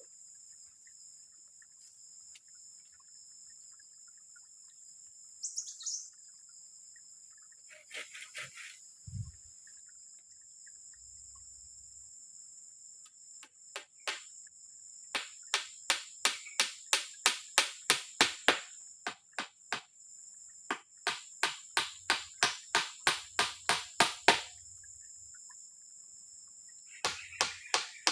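Insects drone steadily at a high pitch. About halfway in, a run of sharp knocks starts, about three a second. It pauses once briefly, stops, then starts again near the end.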